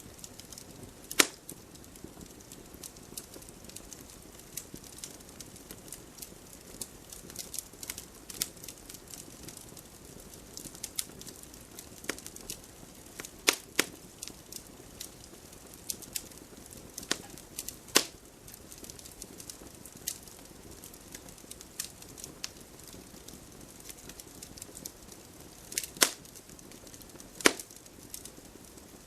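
Wood fire crackling: irregular small snaps over a soft hiss, with a few sharper, louder pops scattered through it.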